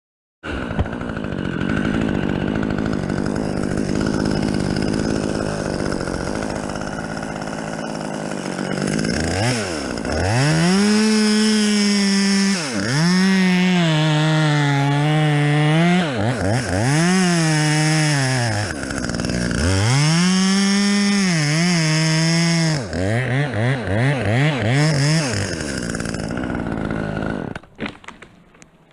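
Chainsaw running, then revved to full throttle and let back down four times in a row, followed by a rapid series of short throttle blips before it dies away near the end.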